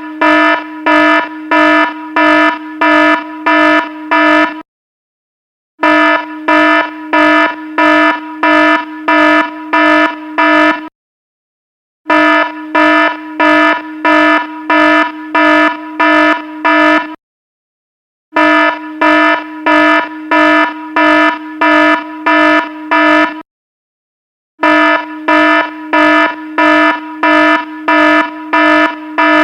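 Electronic alarm sounding: a loud, buzzy beep pulsing about twice a second in runs of about five seconds, each run followed by a pause of about a second.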